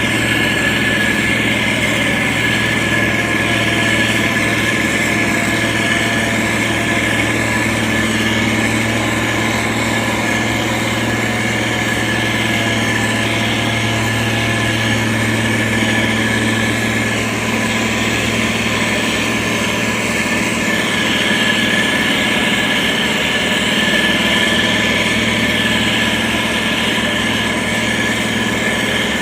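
Diesel engine of heavy road-construction machinery running steadily at an even pitch, with a steady high whine over the engine note.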